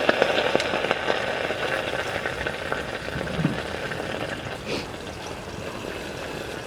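Meat sizzling steadily in a grill pan over a campfire, with small crackling pops through the hiss.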